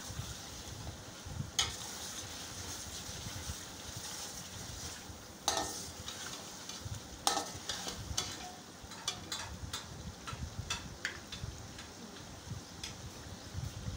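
Meat and ginger-garlic paste sizzling in hot oil in an aluminium karahi while a metal slotted spoon stirs, scraping and knocking on the pan. The loudest knocks come about a second and a half in, around five and a half and seven seconds in, then a run of quicker, lighter taps.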